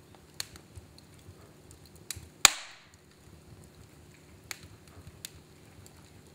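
Wood fire in a fireplace crackling, with scattered sharp pops and one loud snap about two and a half seconds in that trails off briefly.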